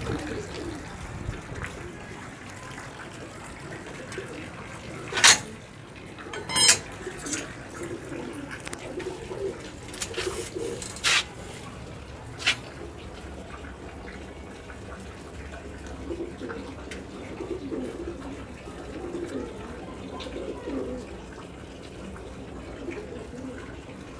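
Domestic pigeons cooing, low calls repeating again and again, over a steady hiss. Several sharp claps or knocks stand out, the loudest about five seconds in, with others near the middle.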